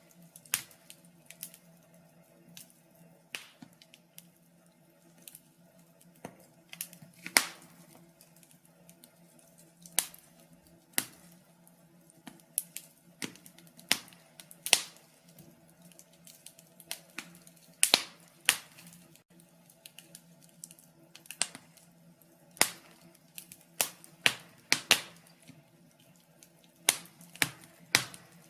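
Wood fire crackling in a fireplace: irregular sharp pops and snaps, some loud and some faint, several a second at times, over a faint low hum.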